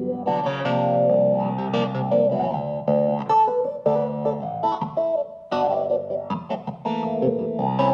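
Hohner Clavinet D6 electric keyboard played in short, percussive chords and riffs, with many sharp note attacks and brief gaps between phrases.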